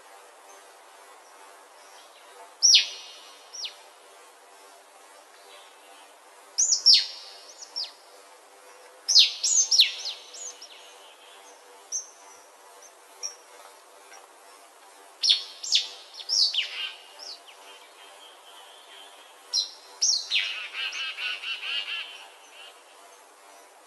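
Birds chirping in short, sharp calls that sweep down in pitch, coming in clusters every few seconds, with a longer buzzy, chattering phrase near the end.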